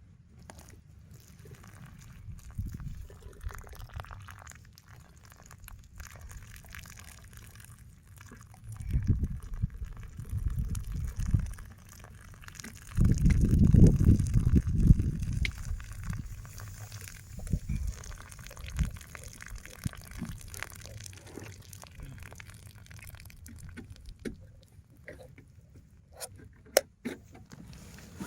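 Strong wind buffeting the microphone in low, rumbling gusts. It surges about nine seconds in and hardest about thirteen to sixteen seconds in, with a few faint clicks near the end.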